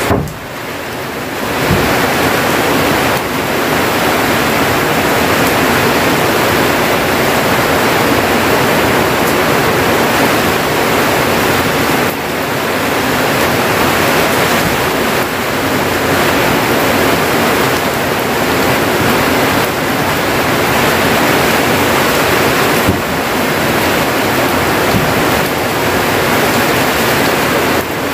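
Heavy storm rain pouring down steadily, a dense unbroken rush of water. It is a little softer for about the first second and a half, then holds loud.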